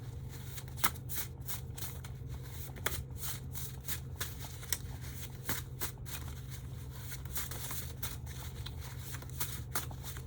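Tarot cards being shuffled by hand: a run of quick, irregular card flicks and slaps, over a steady low hum.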